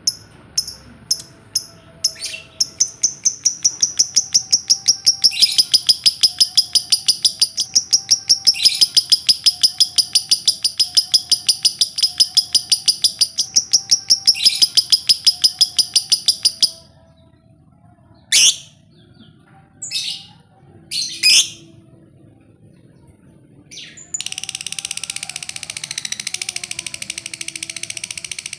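Lovebird 'ngekek': a long, rapid chattering trill of high, evenly repeated notes, which stops about 17 seconds in. A few single sharp calls follow, then another rapid chattering run starts about 24 seconds in.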